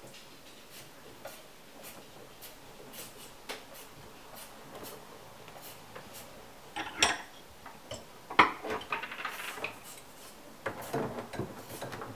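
Clinks and rattles of small hard objects being handled, over faint scattered ticks. Two sharp knocks about seven and eight and a half seconds in are the loudest, followed by a run of rattling near the end.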